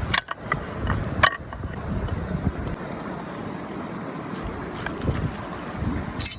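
Steady rush of a flowing river with wind buffeting the microphone, broken by a few sharp clicks, the loudest about a second in.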